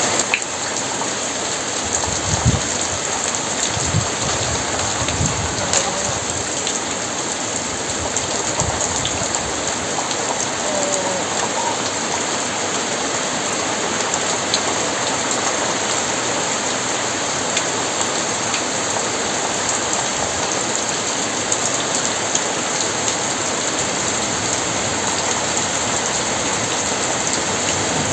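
Heavy rain falling steadily, a dense even hiss with scattered sharp drop ticks. A few brief low thumps come in the first third.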